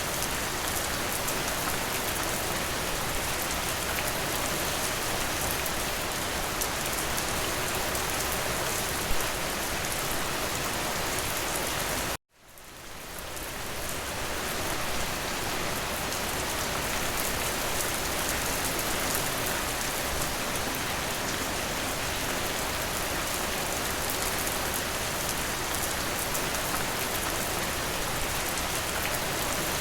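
Steady rain falling as an even hiss, with a single louder drop-like tick about nine seconds in. About twelve seconds in, the rain cuts out abruptly to silence and then fades back up over a couple of seconds, like the seam of a looped recording.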